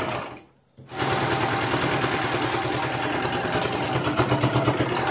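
Sewing machine running steadily while topstitching a blouse's neck facing. It stops briefly about half a second in, then runs on.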